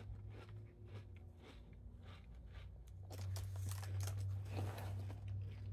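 A person chewing a mouthful of chewy granola clusters in milk, with a soft crunch, over a low steady rumble. From about three seconds in the chewing grows louder, with a few clicks and rustles as the cardboard cereal box is picked up.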